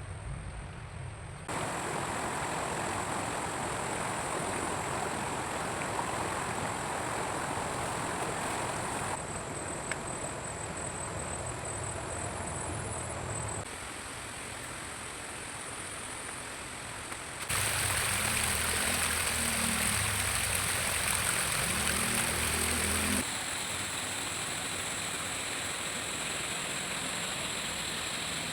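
Steady outdoor rushing noise with no distinct events, changing abruptly in level and tone about five times.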